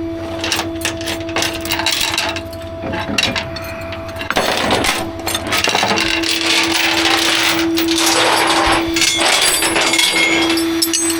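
Metal clinking and clattering, with many sharp knocks and rattles, over a steady hum.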